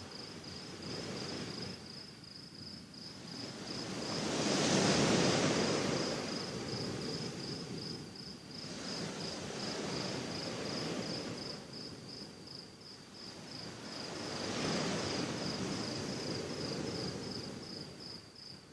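Sea waves washing onto the shore, rising and falling in slow swells, with two larger waves, one about five seconds in and another near fifteen. Crickets chirr steadily, a high pulsing trill under the surf.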